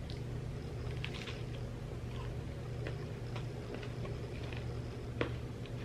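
Chewing a bite of fried vegetable samosa with onion chutney: faint wet mouth clicks over a steady low hum, with a sharper click about five seconds in.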